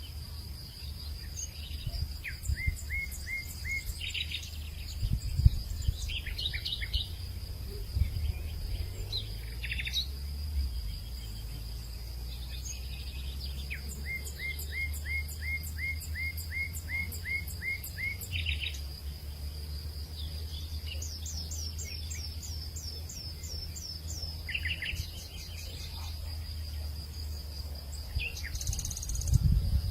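Afternoon hillside ambience: songbirds calling in quick runs of repeated chirps, one run of about a dozen even notes and another of high descending chirps. A steady high-pitched insect drone continues throughout, over a low rumble.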